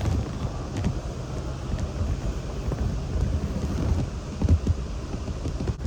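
Wind buffeting the microphone in an uneven low rumble, with a few faint light clicks of hand tools on metal.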